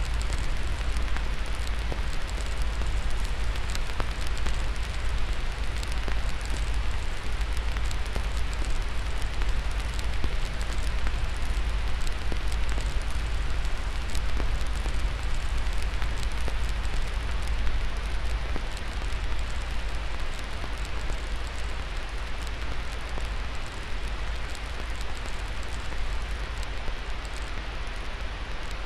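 Crackling fire mixed with steady white noise: an even hiss with many small scattered pops and crackles and a deep low rumble underneath.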